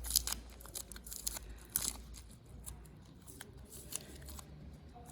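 Irregular light clicks and scrapes of small hand work on the repaired heated-grip wiring, as the joint is trimmed down. A low hum fades out about halfway through.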